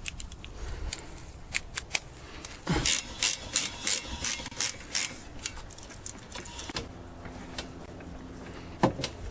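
Socket ratchet wrench clicking in a run of quick strokes, about three a second, undoing the 15 mm nut on a windshield wiper arm. A few scattered clicks and knocks come before and after.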